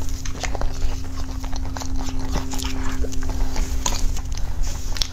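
Close-miked chewing and wet mouth sounds of someone eating soft green cake: irregular little clicks and smacks. Under them runs a steady low electrical hum.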